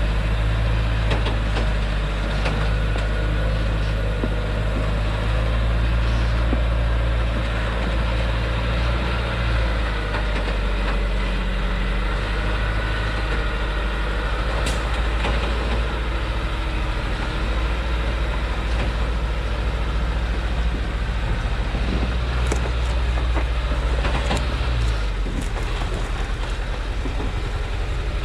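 Loaded Thaco logging truck's engine running steadily on a downhill stretch, a continuous low drone. A few short sharp sounds come in the second half.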